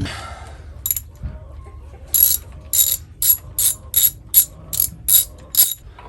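Socket ratchet wrench being worked on a bolt: a run of about nine short clicking strokes, roughly two to three a second, after a single one about a second in.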